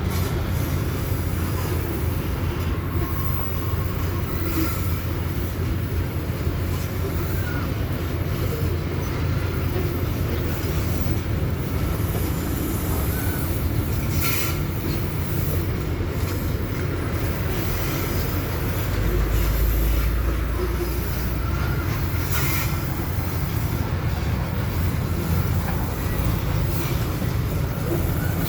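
Babaranjang long coal train rolling on the rails: a steady low rumble of wagons, with a few sharp clicks from the wheels.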